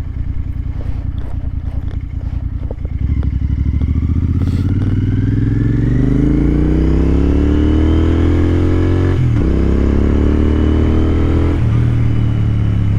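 Royal Enfield Continental GT 650's parallel-twin engine ticking over with a steady low beat, then pulling away about three seconds in and accelerating, its pitch rising and dropping back at two upshifts, the second near the end.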